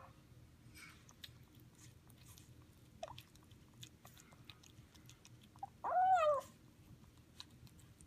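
Highland Lynx kitten chewing and biting food, with soft scattered clicks. About six seconds in, it gives one short call of about half a second while eating, rising then falling in pitch.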